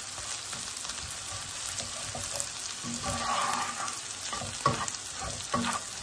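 Chopped garlic and onion sizzling in butter and oil in a frying pan, with a steady hiss. A slotted spatula stirs them, scraping and knocking against the pan several times, mostly in the second half.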